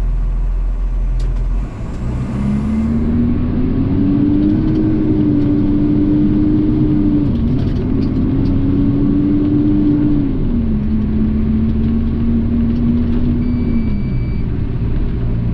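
Garbage truck engine running under way, with a whining tone that climbs as the truck picks up speed, dips briefly a little past halfway, drops again and then fades out near the end, like gear changes and easing off.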